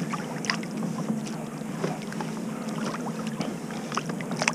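Water splashing and dripping around a kayak while a crab trotline is run alongside it, with many small clicks and knocks and a sharper knock just before the end, over a steady low hum.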